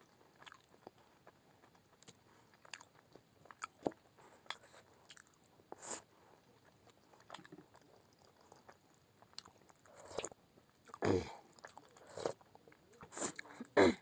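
A person eating momos, chewing and biting with scattered short mouth clicks and smacks. It gets louder for a few seconds near the end.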